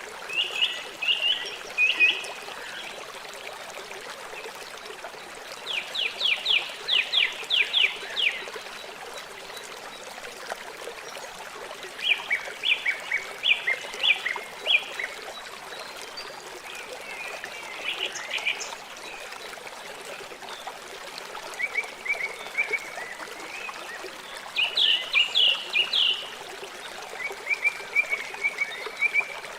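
River water flowing steadily, with an animal repeatedly giving short, rapid trills of high clicking notes every few seconds, louder than the water.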